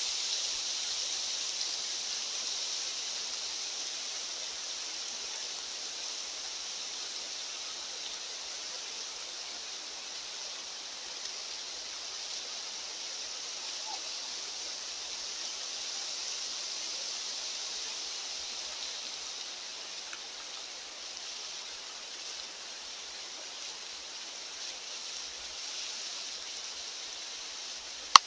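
Steady outdoor hiss, high and even with no low rumble, slowly easing over the stretch; a single sharp click right at the end.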